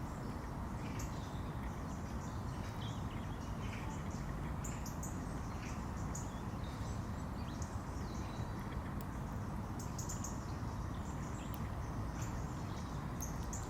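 Outdoor ambience: a steady low rumble with many short, scattered high chirps and ticks from small birds.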